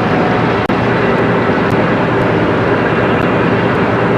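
Boat engine running steadily under way, a constant drone.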